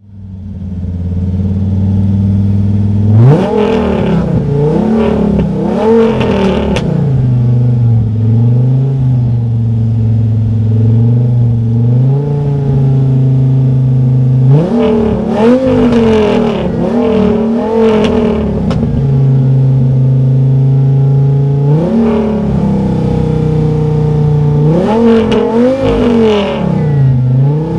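Alfa Romeo TZ3 Stradale's Dodge Viper V10 idling and being revved in quick blips, in several bursts of a few revs each, the pitch rising and dropping back to idle between them.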